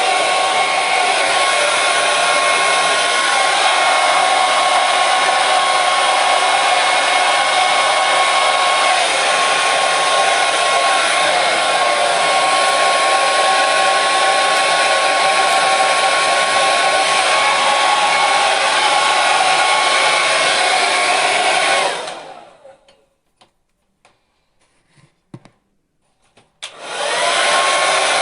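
Hair dryer blowing steadily with a high whine over the rush of air. About 22 seconds in it cuts off and winds down, leaving near silence with a few faint clicks, then near the end it starts again, the whine rising as it spins back up.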